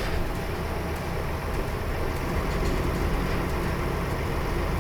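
Diesel engine and drivetrain of a 2004 Nissan Diesel KL-UA452KAN city bus heard from inside the cabin: a steady low drone with road noise.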